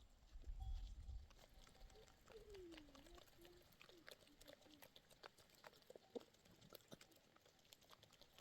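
Near silence: faint scattered clicks and ticks, a brief low rumble near the start, and a faint wavering call from about two seconds in.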